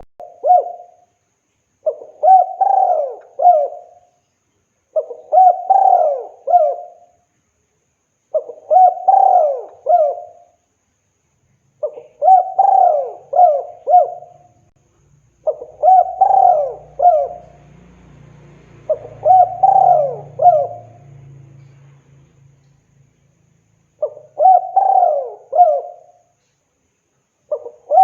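Spotted dove (tekukur) cooing: the same multi-note coo phrase repeated about every three seconds, with one longer pause after about two thirds of the way through. It is the male's call to a female.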